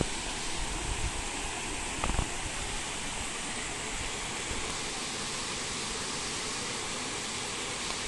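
Shallow stream running over small rock steps: a steady wash of flowing water, with a brief thump about two seconds in.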